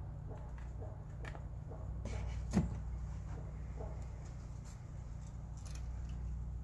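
Oil being topped up into a generator's crankcase filler: faint small clicks and handling noises from the bottle and filler, with one sharp knock about two and a half seconds in, over a steady low hum.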